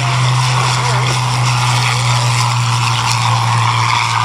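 Piston-engined propeller aircraft running with a loud, steady drone that holds an even pitch throughout.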